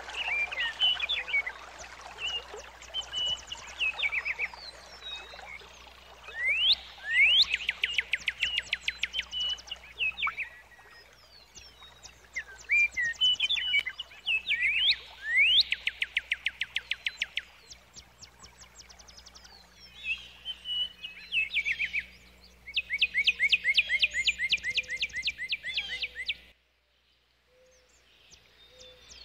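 Songbird singing: repeated phrases of fast trills and rising chirps, with short pauses between phrases and a brief break near the end.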